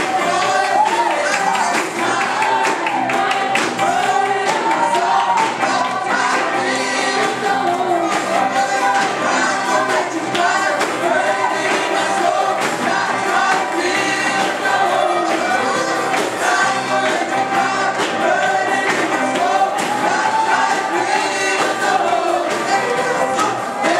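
Gospel worship music: a group of voices singing a praise song together over steady instrumental backing.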